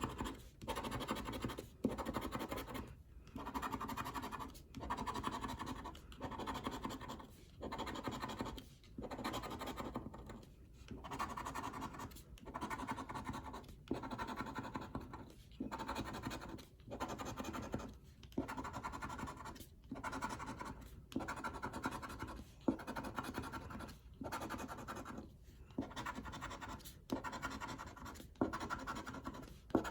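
Scratch-off lottery ticket being scratched, its latex coating scraped off in repeated strokes of a second or two each with brief pauses between.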